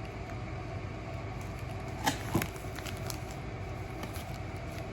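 Steady low hum of a fan or similar machine in a small room, with a few small handling clicks and two brief blips about two seconds in.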